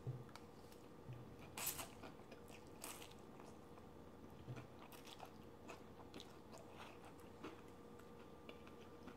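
Faint close-up eating sounds of a person chewing a mouthful of garlic noodles: soft wet mouth clicks and smacks, with two louder short bursts about one and a half and three seconds in. A faint steady hum lies underneath.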